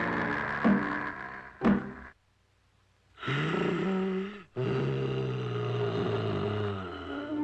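Cartoon soundtrack with two sharp hits about a second apart, then a second of silence, followed by two long held low pitched sounds.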